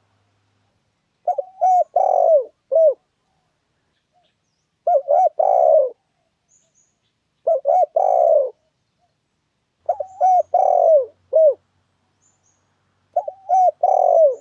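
Spotted dove (tekukur) cooing song: a phrase of several low coos, repeated five times about every three seconds. Faint high chirps of a small bird sound alongside some phrases.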